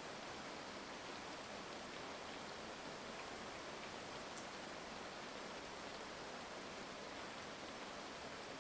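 Heavy rain falling steadily: an even hiss with scattered faint ticks of drops.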